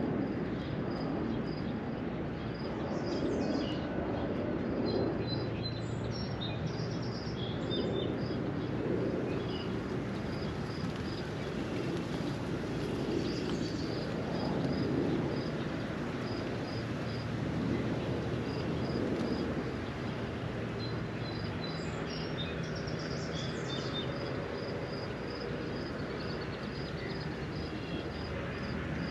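Steady hiss of a spring rain shower, with a few short bird chirps and a high, even note repeating about twice a second.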